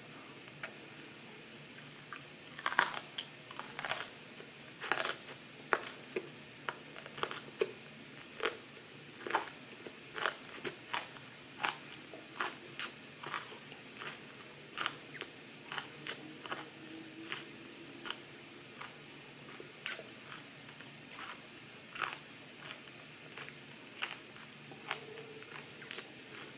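Raw broccoli being chewed: a steady run of crisp crunches, about two a second, loudest in the first few seconds.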